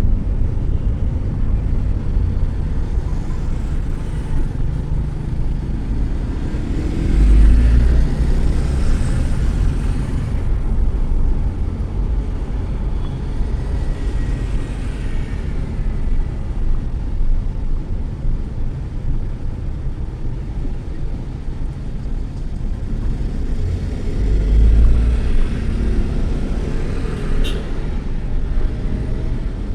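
Steady low rumble and hiss of road traffic from a moving vehicle, swelling louder twice, about a quarter of the way in and again near the end.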